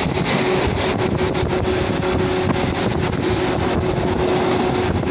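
Shinano Railway 115-series electric train running at speed, heard at an open side window: a steady drone with one held whining tone, the rush of wheels and wind, and wind buffeting the microphone.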